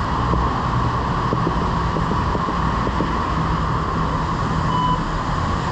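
Steady urban background noise of road traffic and wind on the microphone while walking, with a short electronic beep near the end.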